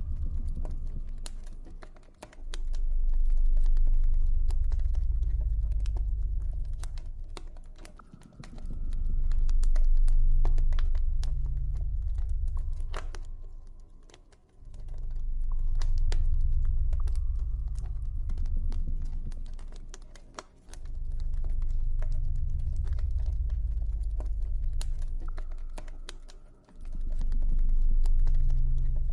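Campfire crackling with many small sharp pops and snaps, over a deep ambient drone that swells and fades about every six seconds.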